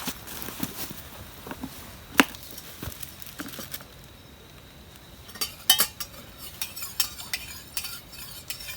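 Metal utensils clinking and scraping against camp cookware, in irregular taps with one sharp clink a couple of seconds in and a quick run of clinks over the last few seconds.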